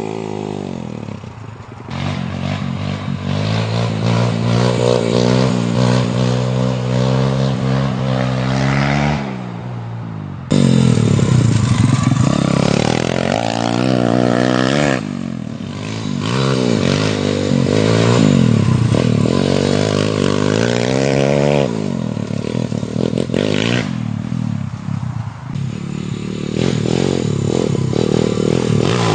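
125 cc dirt bike engine being ridden, its pitch climbing as it revs up through the gears and dropping back off the throttle, over and over.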